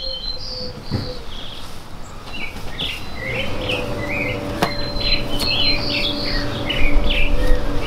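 A songbird singing in a fast run of short chirps, which grows busier after the first couple of seconds. There are a few soft thumps and a rumble of bodies shifting on foam mats, loudest near the end, and a faint steady hum joins about three seconds in.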